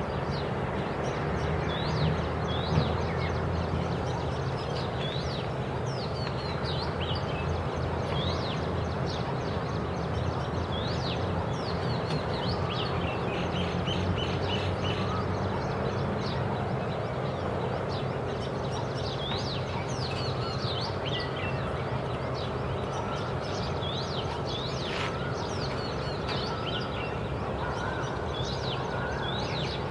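Many short, high chirps from small songbirds, scattered throughout, over a steady low background hum.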